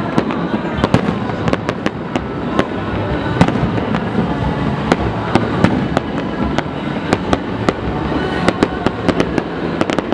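Fireworks display: shells bursting in sharp bangs and cracks at an irregular pace, several a second at times and thickest near the end, over a continuous din.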